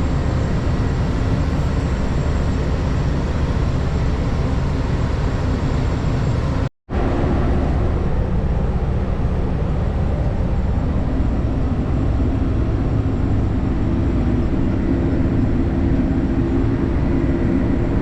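Steady engine and driving noise heard from inside a moving vehicle's cab. It cuts out suddenly for a fraction of a second about seven seconds in, and the steady hum comes back slightly changed.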